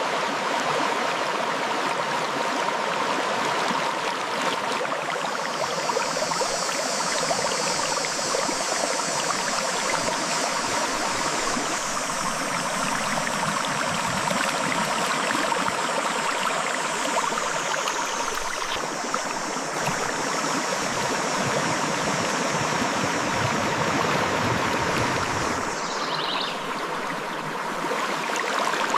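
Clear river water flowing and babbling over rocks, a steady, even rush.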